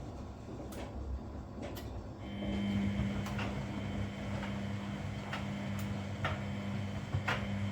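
Washing machine running a wash cycle. Its drum motor starts up about two seconds in with a steady hum and a faint whine, and there are irregular clicks and knocks throughout.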